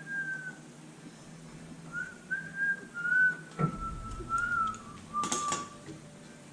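A person whistling a wandering tune, one clear note at a time with small pitch slides. A dull thump comes about three and a half seconds in, and a brief sharp clatter a little after five seconds.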